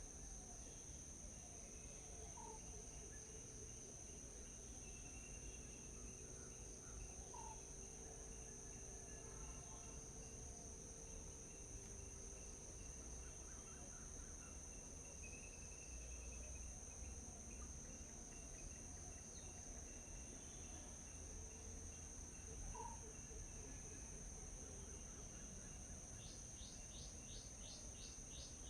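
Steady high-pitched drone of insects calling, with faint scattered bird chirps. Near the end a bird gives a quick run of repeated notes.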